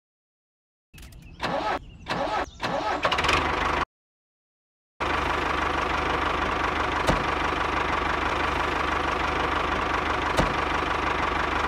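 Engine starting: a few short stuttering cranks that keep cutting out, a pause, then a steady idle with a constant low hum and a thin high whine.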